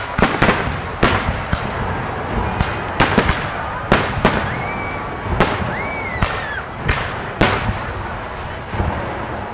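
Aerial fireworks shells bursting in quick succession, a sharp bang every half second to a second, with rumbling echoes between the bangs.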